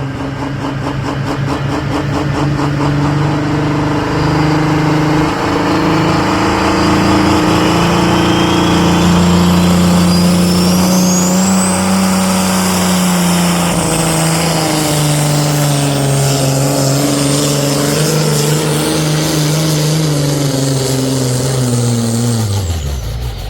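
New Holland pro stock pulling tractor's diesel engine running hard at full throttle down the track, with a high whistle that rises and then holds. Near the end the engine winds down, its pitch falling.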